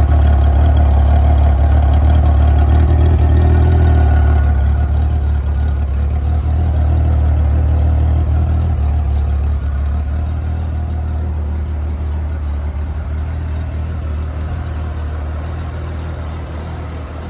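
1994 Honda Gold Wing GL1500's flat-six engine running steadily at a low idle, growing gradually quieter over the second half.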